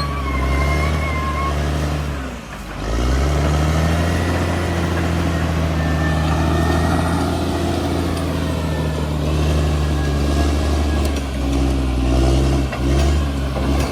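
Bulldozer's diesel engine running steadily under load, with a brief dip in pitch and level about two and a half seconds in before it picks back up.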